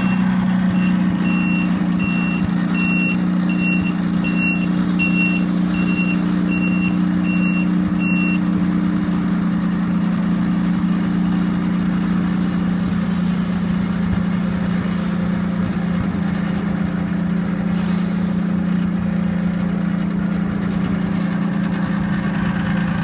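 Heavy diesel truck engine running steadily with a reversing alarm beeping about twice a second for the first eight seconds, then stopping. A short burst of air hiss, like an air brake release, comes about eighteen seconds in.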